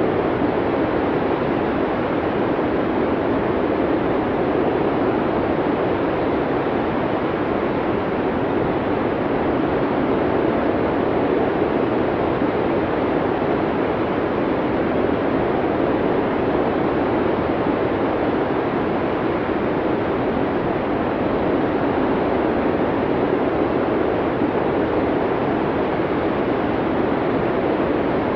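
Snowstorm wind blowing steadily: a constant rushing noise, strongest in the low middle, with only slight swells and no gusts or breaks.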